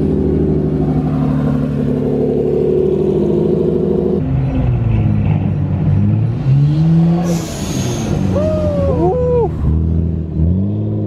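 Modified sports-car engines as cars drive slowly past: a steady engine note for about four seconds, then revs rising and falling, with a brief hiss about seven seconds in and another rev near the end.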